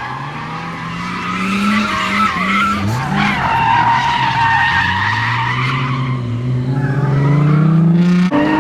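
Nissan R32 Skyline drift car sliding with its tyres squealing, the engine held high in revs. The engine's pitch climbs, dips about three seconds in, then climbs again before dropping off near the end.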